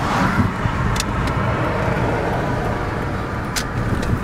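A car running: a steady rumble of engine and road noise, with a few light clicks.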